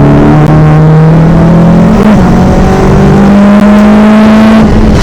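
Onboard sound of a VW Golf GTI Mk1 rally car's four-cylinder petrol engine pulling hard under load, its note climbing steadily, with a brief dip about two seconds in. Near the end the note drops away as the driver lifts off for the next corner.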